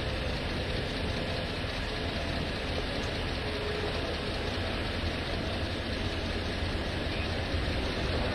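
Steady running of a vehicle engine at idle, a constant low rumble with no change in level.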